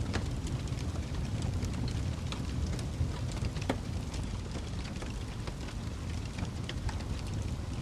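Wood fire burning in a fireplace: a steady low rumble of flames with scattered sharp crackles and pops from the burning logs, one louder pop a little past the middle.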